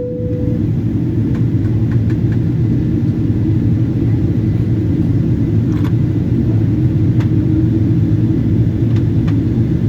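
Steady low rumble of a Boeing 777-200 in flight, engine and airflow noise heard inside the passenger cabin, during descent. A short steady tone sounds at the very start, and a few faint clicks come later.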